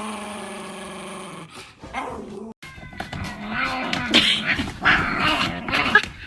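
Dog vocalizing: one long held note that sinks slightly in pitch over about a second and a half, then, after a brief gap, a run of shorter, changing vocal sounds.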